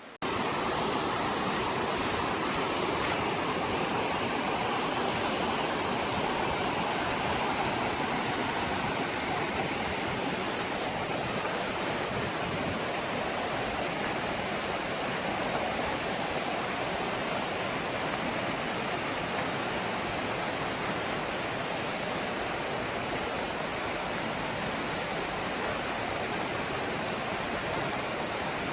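Mountain valley stream roaring in a steady, full rush, running high and strong a few days after a typhoon. The rush cuts in suddenly at the start, with one brief faint click about three seconds in.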